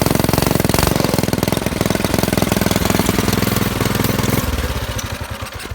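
Predator 212 single-cylinder four-stroke minibike engine, fitted with a 22mm Mikuni carburetor, running steadily with a rapid, even firing beat. About four and a half seconds in it is shut off, and its firing slows and dies away as it coasts to a stop.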